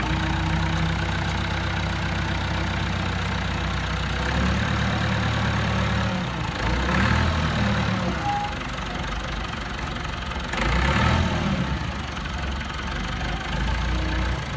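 Vehicle engine idling steadily, rising briefly twice as it is worked harder, about seven and eleven seconds in.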